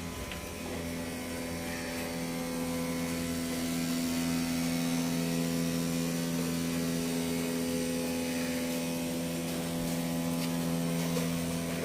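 Steady machine hum at a fixed pitch.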